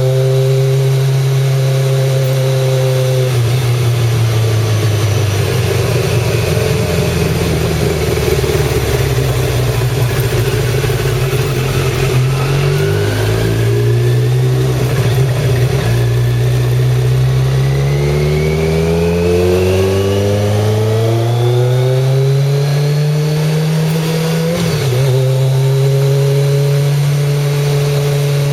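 Kawasaki ZZR1100 inline-four engine running under way on the road. Its pitch drops about three seconds in, then climbs in several steps, with a long rise toward the end and a sudden drop just before it settles steady again, like gear changes through acceleration.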